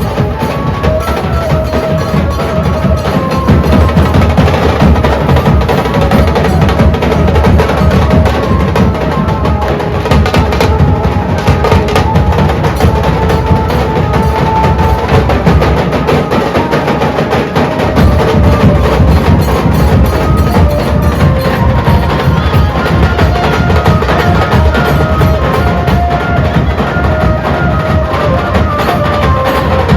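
Dhol band playing a fast, dense beat: deep dhol strokes under sharp, rapid stick-struck drumming, with a melody line carried over the top. The deep drum drops back briefly about halfway through.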